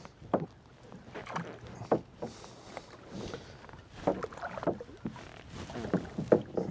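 Irregular splashing and sloshing of water as a hooked blue catfish thrashes at the surface while it is reeled in to be landed.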